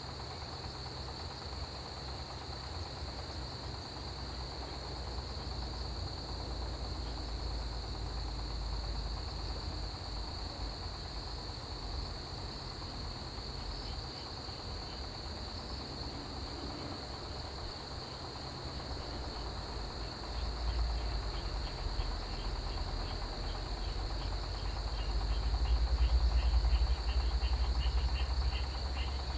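Autumn grass insects chirping in chorus: a continuous high trill with faster pulsing chirps above it. A low rumble underneath swells in the last third.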